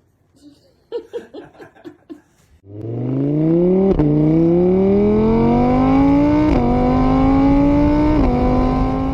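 Car engine accelerating hard through the gears, starting about two and a half seconds in. The pitch climbs steadily, drops at each of three upshifts, and climbs again after each one.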